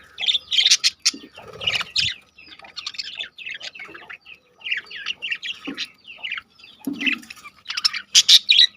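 A flock of caged budgerigars chattering, many short, high chirps and calls overlapping without a break.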